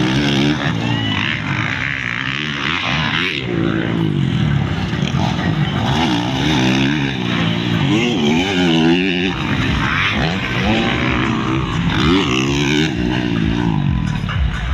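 Motocross bike engines racing, revving up and down in pitch over and over as the bikes accelerate and shift.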